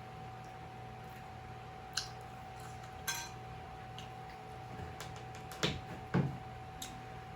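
Eating sounds: a utensil clicking and clinking against a dish a handful of times, loudest about five and a half and six seconds in, over a steady faint hum.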